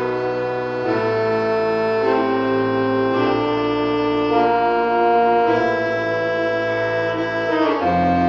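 Slow, sustained organ-like chords, each held about a second before moving to the next, with a lower, fuller chord near the end.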